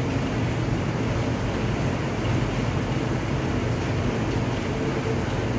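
Heavy rain pouring steadily onto a wet concrete yard: a dense, even hiss with a deep rumble underneath and no break.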